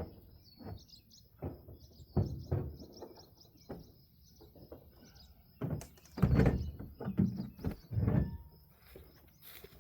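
Small birds chirping during the first half, with irregular knocks and clunks throughout; the loudest clunks come a little past the middle.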